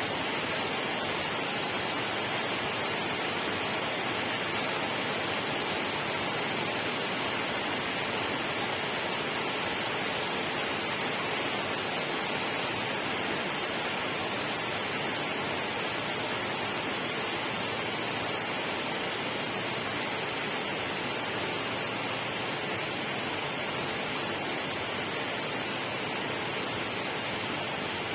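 Steady rushing water, an even noise that holds the same level throughout.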